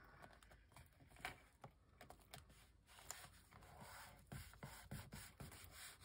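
Faint paper-handling sounds: scattered light taps and soft rustles as paper is glued and pressed down.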